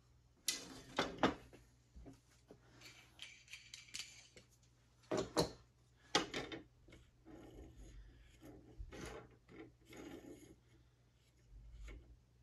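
Hand work on wooden arrow shafts: an irregular run of clicks, knocks and short rubbing or scraping sounds.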